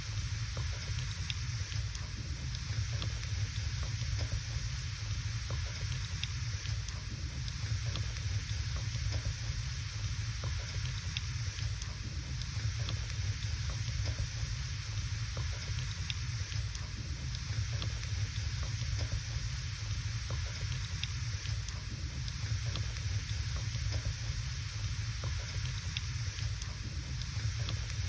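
Wood burning in a fireplace: a steady hiss and low rush from the fire, with scattered short crackles and pops.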